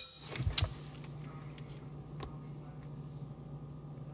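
A short knock, like something set down on a kitchen counter, about half a second in, then a few faint ticks over a steady low hum.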